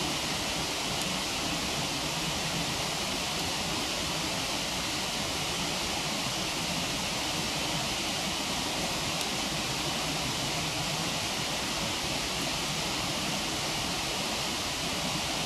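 Steady rushing of a waterfall, an even hiss that holds constant throughout.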